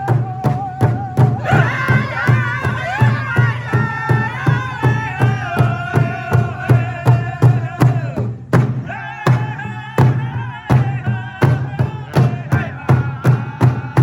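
Powwow drum group: several men strike a large shared drum in a steady beat, about three strokes a second. Over it the singers' high-pitched voices carry a melody that falls phrase by phrase. The singing breaks off briefly about eight and a half seconds in, then starts again high while the drum keeps on.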